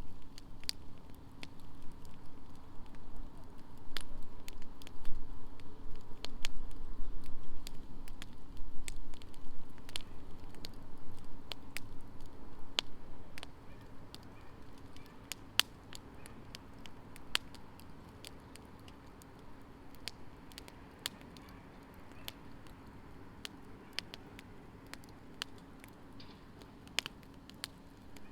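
Wood fire burning in a fire stand, crackling with frequent irregular sharp pops. A louder low rumble under the crackle dies down about halfway through, and a faint steady hum runs underneath.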